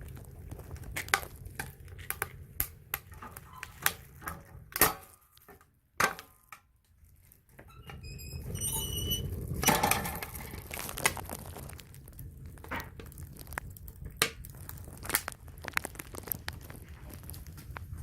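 Firewood and metal parts knocking and clattering against a homemade square steel-pipe wood stove, with short metallic pings and a stretch of rustling about halfway through.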